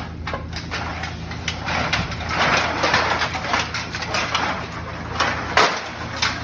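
Plastic bag rustling and crinkling as a bottle-return bag is swapped out of its holder box, with scattered clicks and knocks, over a steady low hum.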